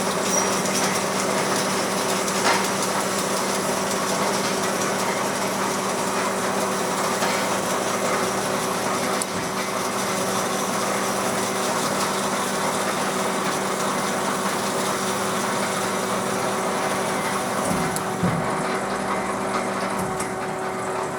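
Doall DC-330NC automatic horizontal bandsaw running: band drive, hydraulic pump and chip auger making a steady mechanical hum with a whine over it. Near the end one part of the hum stops.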